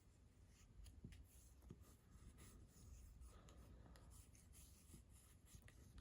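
Faint scratching of a coloured pencil drawing on paper.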